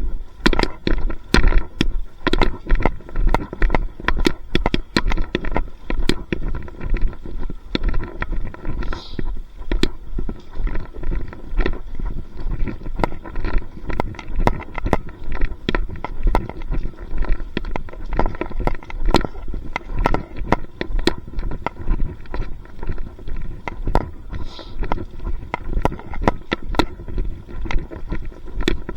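Footsteps of someone walking at a steady pace, about two steps a second, with low thuds and clicks from the handheld microphone jostling at each step.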